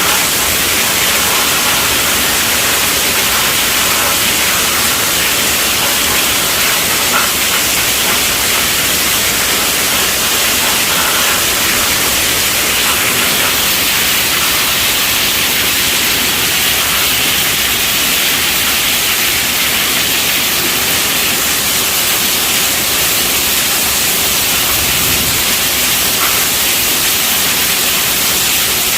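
Steady rainfall: a dense, even hiss, mostly high-pitched, that holds at one level without breaks.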